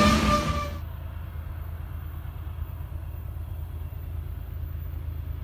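Covered hopper cars of a freight train rolling past close by, cut off abruptly less than a second in. Then a steady low rumble of BNSF diesel locomotives approaching in the distance.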